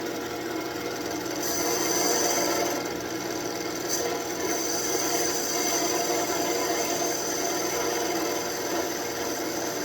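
Wood lathe running while a turning tool cuts into a spinning birch branch: a steady scraping, shaving sound over the lathe's motor hum.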